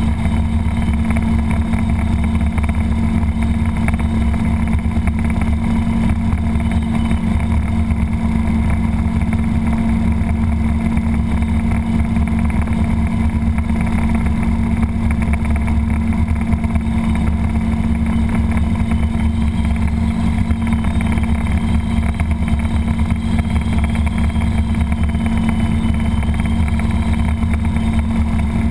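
Robinson R22 helicopter's four-cylinder Lycoming piston engine and rotors running steadily, a constant drone with a strong low hum.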